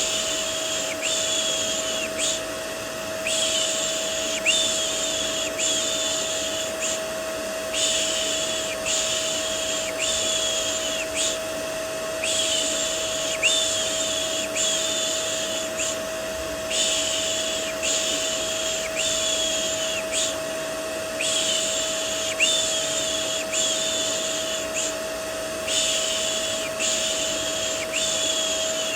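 Rhythmic "shh, shh" shushing for soothing a baby, repeated about once a second in runs of several with short pauses, over the steady hum of a vacuum cleaner used as white noise.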